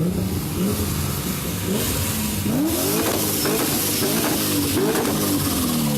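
Supercharged LS2 V8 in a Nissan S14 being revved hard, its note sweeping up and falling back several times in quick succession.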